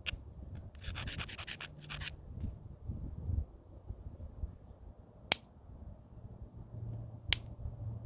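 Scraping of stone against stone for about a second, as when abrading a platform edge, then two single sharp cracks a couple of seconds apart: percussion blows of a homemade bopper on a stone spall.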